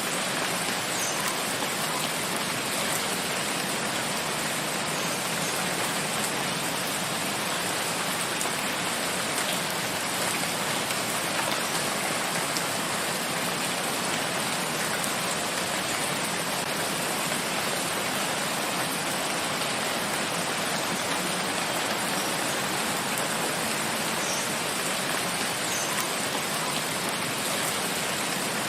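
Steady rain falling in a forest, an even hiss of drops on leaves and ground with a few faint individual drop ticks.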